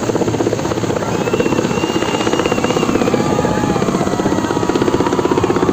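Helicopter overhead, its rotor giving a steady, rapid chopping pulse that grows slightly louder.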